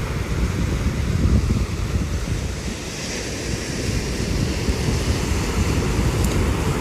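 Sea waves washing on the shore, with wind gusting against the microphone.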